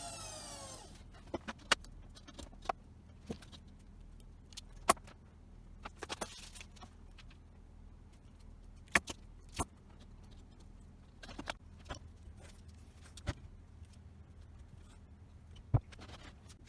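Treadmill motor's whine falling in pitch as it spins down, fading out within the first second. Then scattered light metallic clicks and clinks, about a dozen at irregular intervals.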